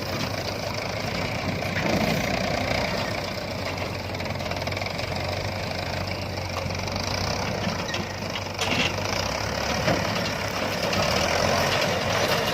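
Diesel engine running steadily at low speed, with a couple of sharp knocks about nine and ten seconds in.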